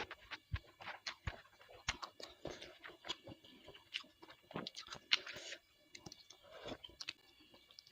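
Close-miked chewing of bakso (Indonesian meatballs): irregular wet mouth clicks and smacks, several a second.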